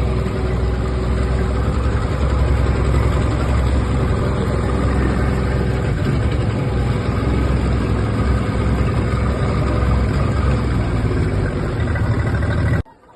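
Engine running at a steady speed with a strong low drone; the sound cuts off abruptly near the end.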